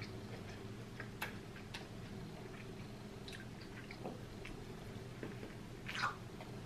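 Chewing and biting into a corn on the cob: scattered faint wet mouth clicks and smacks, with a louder bite about six seconds in.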